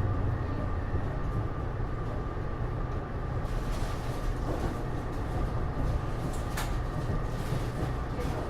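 Interior running sound of a Taipei Metro Series C301 car with Bombardier IGBT-VVVF traction: steady rumble of wheels on rail with a constant whine, and a few light clicks and knocks.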